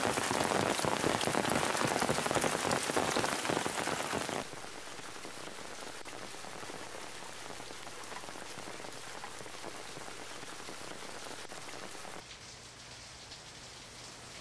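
Heavy rain pattering and splashing, a dense hiss of many close drops. About four and a half seconds in it drops to a quieter, steady rain hiss.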